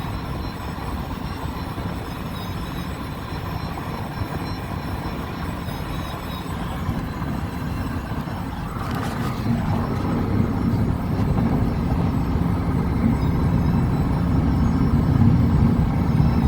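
Inside the cabin of a 2008 Chevrolet HHR driving at speed: a steady drone of road and engine noise that grows louder from about eight seconds in, with a brief rush around nine seconds.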